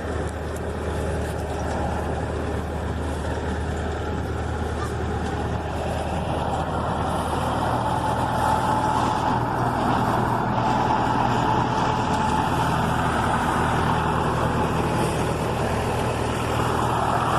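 Bulldozer's diesel engine running steadily under load, its note stepping up and growing a little louder about halfway through.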